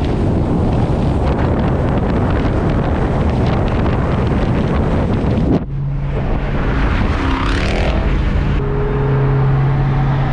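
Dodge Hemi V8 car at highway speed: loud wind rush over the engine noise, which cuts off abruptly about halfway through to a steady low engine drone, with a brief rising and falling whine soon after.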